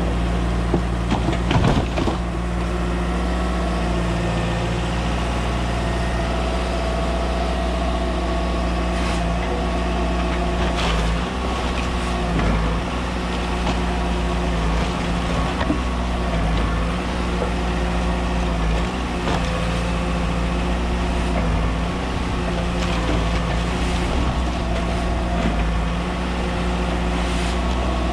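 Volvo ECR 145 excavator's diesel engine running steadily while working, with a few knocks of material being struck or handled.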